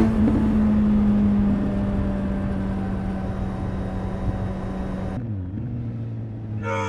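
Suzuki GSX-S 750 inline-four engine and exhaust running under way at a steady note. About five seconds in, the revs drop as the throttle closes, and it settles to a lower, even note.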